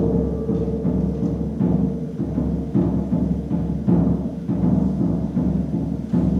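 Percussion solo on low-pitched drums, struck in a quick, steady rhythmic pattern of several strokes a second, with a held tone sounding underneath at the start.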